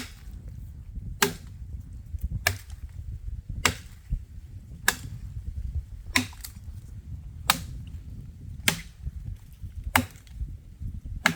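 A foice (brush hook) chopping dry wood: about ten sharp strikes in a steady rhythm, roughly one every second and a quarter, over a low rumble.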